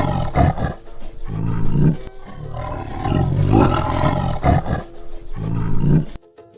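Tiger roaring, the same roar heard twice in a row and cutting off suddenly near the end.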